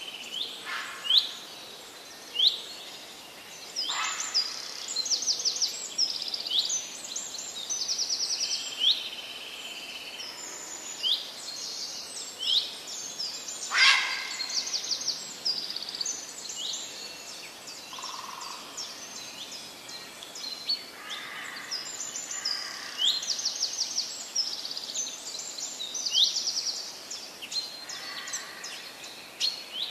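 Birds chirping and trilling: many short rising notes and quick trills, with a few sharper, louder calls about one, four and fourteen seconds in, over a faint steady hiss.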